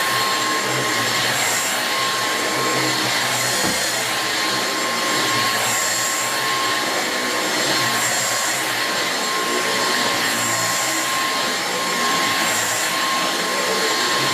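Dyson V6 Absolute cordless stick vacuum running on carpet, a steady high motor whine whose sound swells and eases every second or two.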